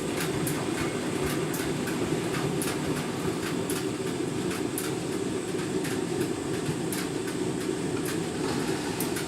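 Candy washing machine in a deep rinse: the drum tumbling a half load through the rinse water, a steady churning with sharp clicks every second or so.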